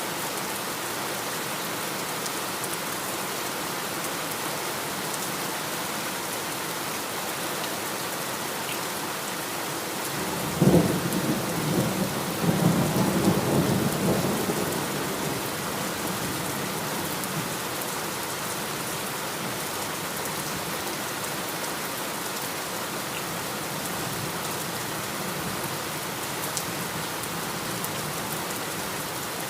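Heavy rain falling steadily. About a third of the way in, thunder breaks with a sharp crack and rumbles for several seconds before fading back under the rain.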